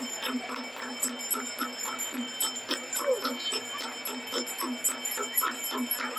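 Bells ringing continuously with a steady beat of about two to three strokes a second.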